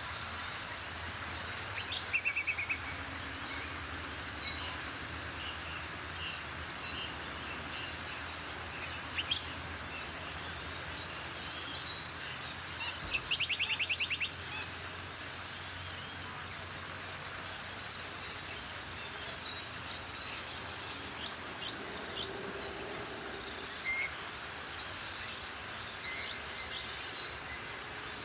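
Many small birds chirping and calling over steady background noise, with two short, rapid, rattling trills standing out, one about two seconds in and one about thirteen seconds in.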